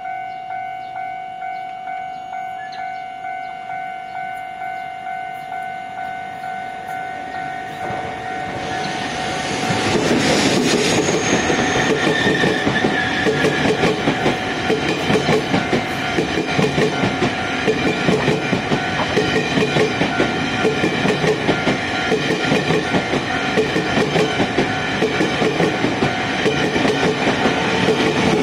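Level-crossing warning bell dinging at a steady pace. About nine seconds in, a Taiwan Railway push-pull Tze-Chiang express passes over the crossing, its wheels clacking rhythmically over the rail joints as the bell keeps ringing.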